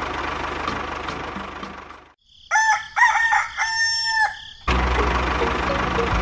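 A rooster crowing, one long cock-a-doodle-doo lasting about two seconds. It comes between stretches of a small engine running steadily: the engine fades out about two seconds in, and after a brief silence it cuts back in suddenly after the crow.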